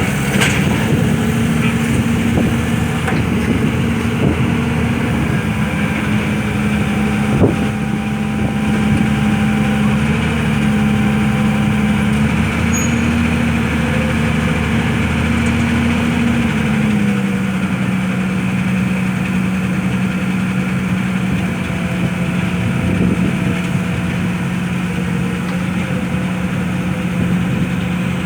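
Engine of a pile-driving machine running steadily, settling to a slightly lower speed a little over halfway through, with one sharp knock about a quarter of the way in.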